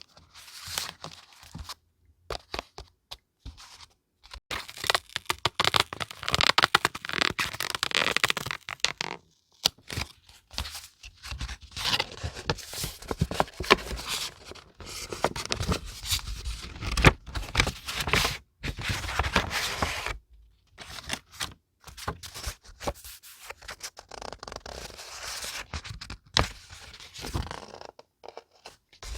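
Paper being handled close to the microphone: irregular rustling, crinkling and tearing in spells, with a few brief pauses.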